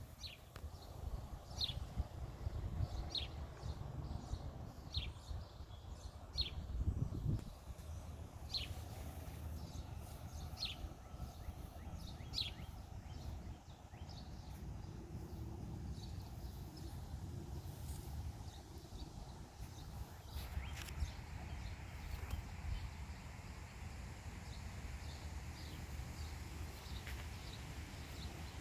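A songbird repeating one short, sharp chirp that falls in pitch, about once every second and a half for the first dozen seconds, then fainter, thinner chirps. Underneath is a steady low rumble with thumps.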